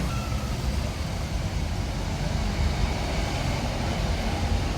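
Steady low rumble of engine noise, with no distinct knocks or tool strikes.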